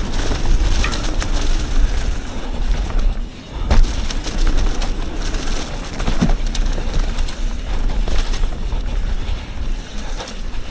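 Mountain bike riding down a trail: wind rushing over the microphone, tyres on dirt and the bike rattling, with sharp knocks from bumps. The loudest knock comes just before four seconds in, after a brief lull.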